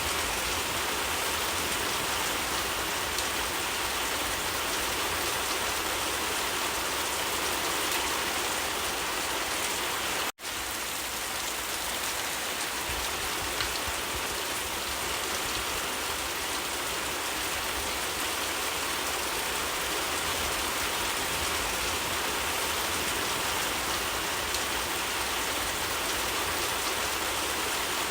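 Steady rain falling, an even hiss of drops, which cuts out for an instant about ten seconds in.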